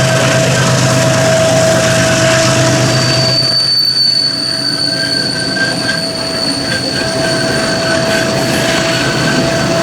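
Freight train's wagon wheels squealing steadily as they roll through a curve. A second, much higher squeal joins about three seconds in.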